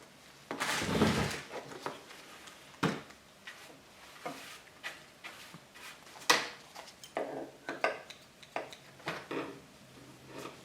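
Irregular handling noises: a string of knocks and clicks with a longer scraping rustle about a second in and a sharp knock at about six seconds.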